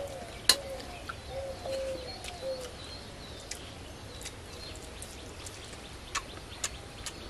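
Outdoor bird calls: a run of short, low whistled notes over the first few seconds. Scattered small clicks and smacks run through it as a man eats rice by hand.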